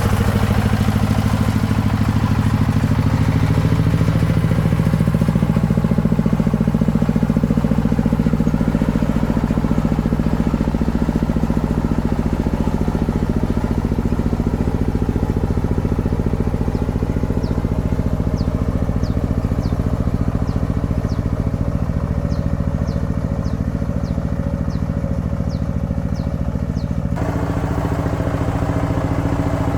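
Single-cylinder diesel engine of a công nông farm truck running steadily. A run of faint, short high chirps sits over it in the second half, and the engine sound changes abruptly near the end.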